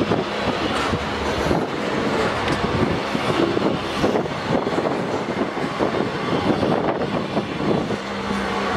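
Train of covered grain hopper wagons rolling past: a steady rumble of steel wheels on the rails with frequent, irregular clanks and knocks.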